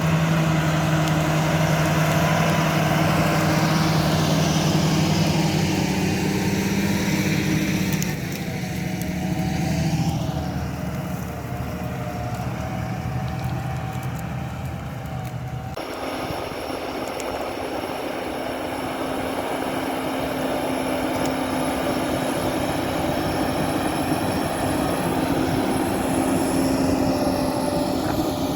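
Large farm tractor engines running steadily under load while ploughing. The drone changes abruptly to a higher, steady pitch about halfway through.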